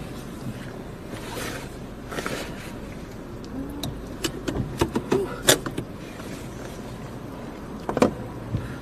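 Car cabin noise: a steady low engine and road hum, with a run of sharp clicks and knocks about four to six seconds in and another knock near the end.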